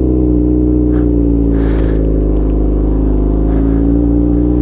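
Motorcycle engine running at low revs in gear as the bike rolls forward on the clutch without throttle; its pitch sags a little in the middle and picks back up near the end.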